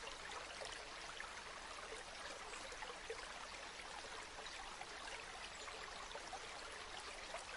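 Stream water flowing steadily: a soft, even rush scattered with many small trickling splashes.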